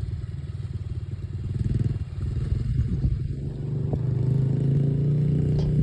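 Dirt bike engine running, getting louder about four seconds in and then holding steady.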